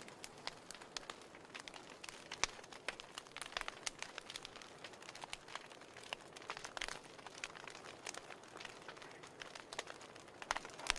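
Wood fire burning in a fireplace: a steady soft hiss with irregular crackles and sharp pops, the loudest about two and a half seconds in and just before the end.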